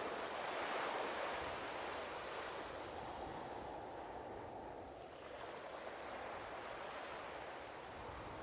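Ocean waves washing in a steady rush, swelling twice and fading near the end.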